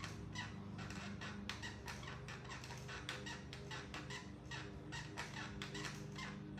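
Stationary exercise bike being pedalled: a steady hum from the flywheel with a rhythmic squeak about three to four times a second, in time with the pedalling.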